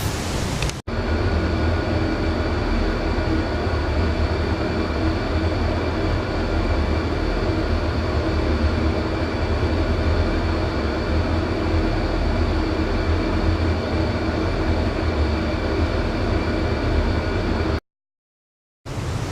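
A steady mechanical hum: a low rumble with several fixed steady tones over it. It starts abruptly about a second in and cuts off suddenly near the end.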